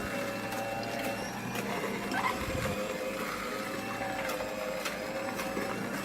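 AMZCHEF cold-press slow juicer running, its motor humming steadily while the auger squeezes cucumber, with scattered clicks and crackles.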